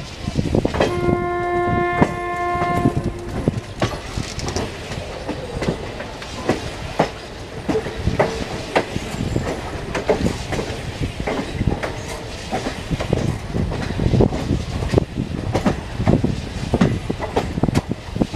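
Moving passenger train with its LHB coaches' wheels clicking over rail joints. A train horn sounds a single steady chord for about two seconds near the start.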